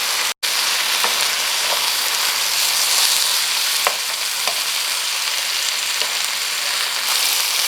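Chicken frying in hot oil in a pan, a steady sizzle with a few faint clicks scattered through it.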